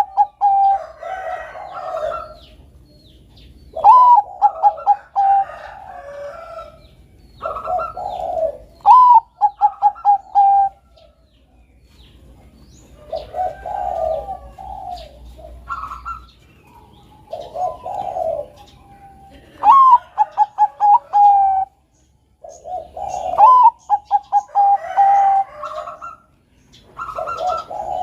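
Zebra dove (perkutut, Bangkok song strain) singing: repeated phrases, each a rising coo followed by a quick run of short staccato coo notes, one phrase every few seconds.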